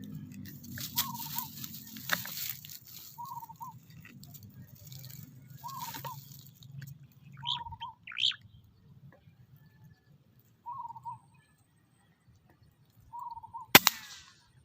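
A bird repeating a short call six times, about every two seconds, with a couple of higher chirps in the middle. One sharp crack sounds near the end.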